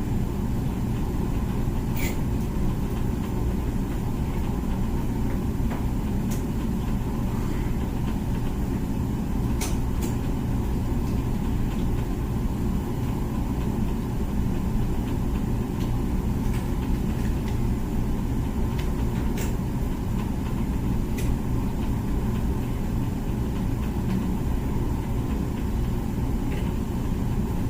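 Comfee dishwasher running mid-cycle: a steady low hum of the wash pump and circulating water, with a few faint clicks now and then.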